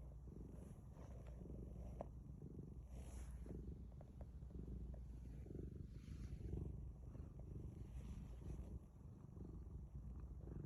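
A cat purring, faint, low and pulsing evenly.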